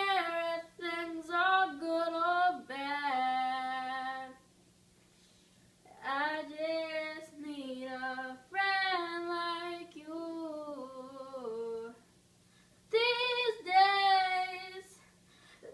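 A young girl singing solo without accompaniment, in three sung phrases with short pauses between them, over a faint steady low hum.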